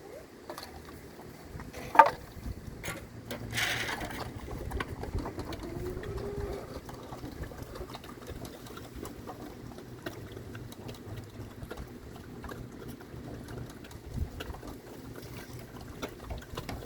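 Pigs chewing and crunching food from their bowls, an irregular run of small clicks, with a sharp knock about two seconds in.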